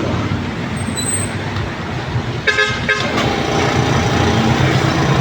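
A new 2 hp air compressor running with a steady, fairly quiet hum. A vehicle horn toots briefly about halfway through.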